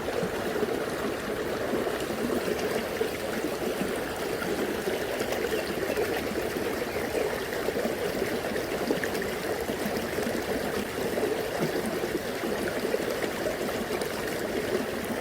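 Shallow, fast-flowing river babbling steadily over stones.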